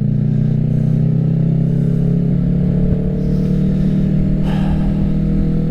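Kawasaki Ninja 650's parallel-twin engine running at a steady pace through an M4 full exhaust system, its note holding nearly level with a low rumble beneath.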